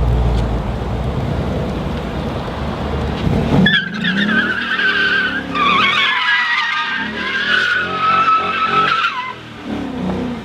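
Ford Coyote 5.0 V8 of a 2017 Mustang GT on its stock exhaust, running with a low rumble. About four seconds in, the tires break into a squeal that wavers in pitch for some five seconds.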